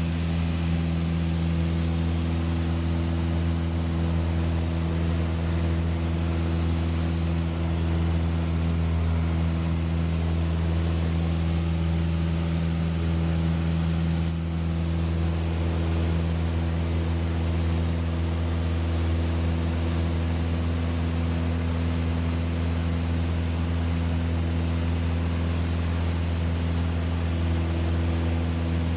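Light aircraft's piston engine droning steadily at constant power, with a deep even hum.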